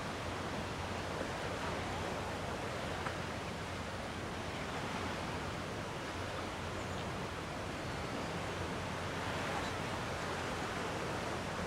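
Gentle sea waves washing against the shore in a steady, even wash of surf noise, with no distinct breaking crashes.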